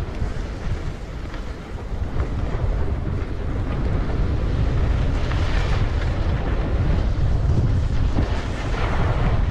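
Wind buffeting the microphone: a steady, low, unpitched rumble, with swells of higher hiss about halfway through and again near the end.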